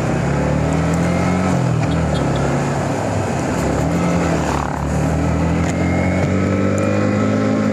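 Motorcycle engine running under way, its pitch rising and falling as the rider works the throttle, over steady wind and road noise.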